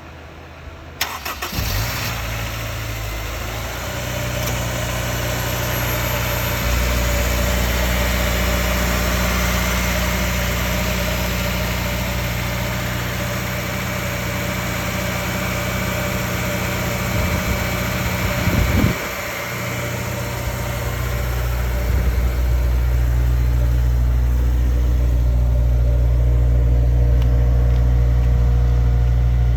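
2004 Honda S2000's four-cylinder engine cold-started: it cranks briefly about a second in, catches, and settles into a steady idle while cold. About two-thirds of the way through, the idle briefly rises and dips before steadying again.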